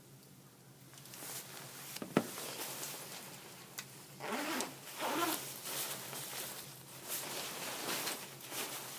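Metal parts of a Kratki Zuzia cast-iron fireplace insert being slid and worked, making repeated scraping strokes. There is a sharp click about two seconds in and short squeals a little before the middle.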